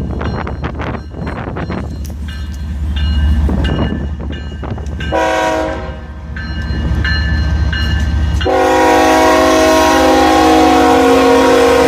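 Train horn: a short blast about five seconds in, then a long, loud blast from about eight and a half seconds on, over the rumble and clicking of a passing train.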